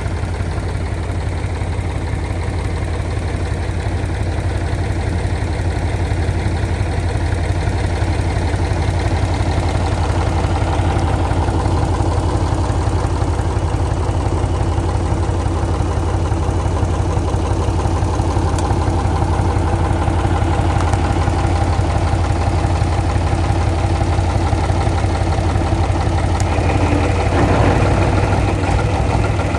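Heavy truck's diesel engine running steadily with a deep, even hum, getting a little louder near the end.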